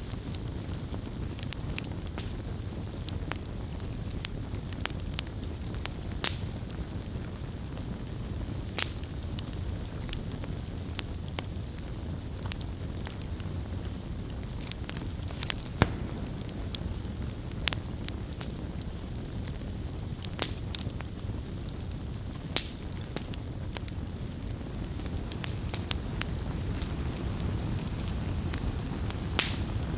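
Wood campfire burning: a steady low rush of flames with irregular crackles and occasional sharper pops from the burning wood.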